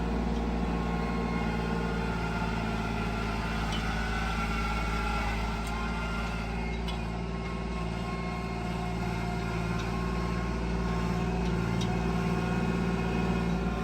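Tractor engine running steadily while clearing snow, an even hum with no change in pitch.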